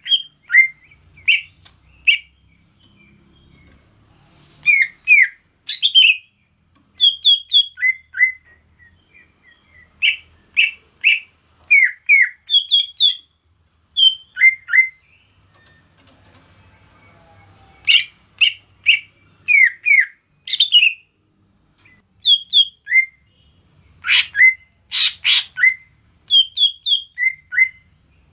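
Cucak ijo (greater green leafbird) singing: short, sharp whistled notes in quick groups of two to five, with pauses of a second or two between groups, over a steady high hiss.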